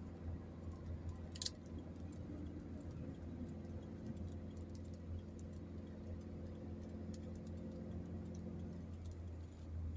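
Steady low drone of a car driving, heard inside the cabin, with a few steady engine tones over it. Faint irregular clicks and ticks run through it, one a little sharper about one and a half seconds in.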